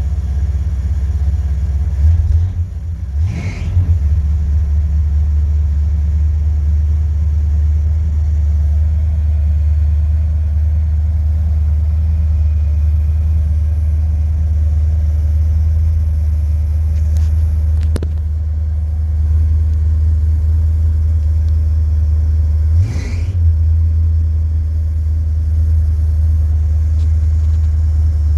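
1968 Chrysler 300's 440 big-block V8 idling steadily as it warms up after a cold start, heard from inside the car. Its sound shifts briefly twice, about three seconds in and again near the end, and there is one sharp click about midway.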